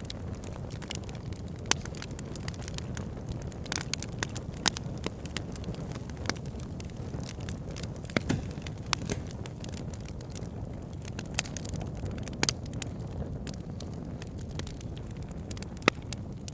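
Wood fire burning in a fireplace: a steady low rumble of flames with frequent crackles of burning logs and a few sharper, louder pops.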